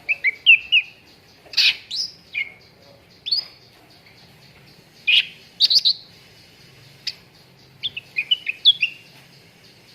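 Cucak ranting songbird chirping in short bursts of quick, up-and-down notes, with brief pauses between the groups.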